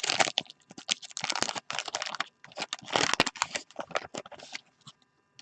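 Handling of a 1989-90 Fleer basketball wax pack and its cards: crinkly paper wrapper and stiff cardboard cards being worked by hand, in several bursts of rustling and clicking that die away a little over four seconds in.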